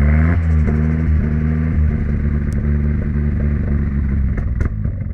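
Turbocharged SR20DET inline-four of a Nissan 200SX S13 dropping back from a throttle blip, with a short burst of noisy chatter as the revs fall, the turbo flutter of compressor surge on lift-off. It then settles into a steady idle, with a couple of sharp ticks near the end.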